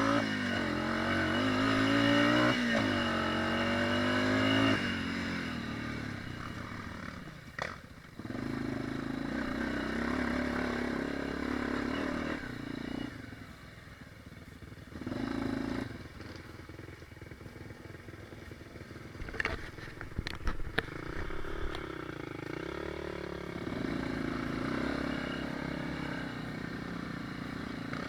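Dirt bike engine running on a ride, revving up twice in the first five seconds, then running at varying speed. A cluster of sharp knocks comes about two-thirds of the way through.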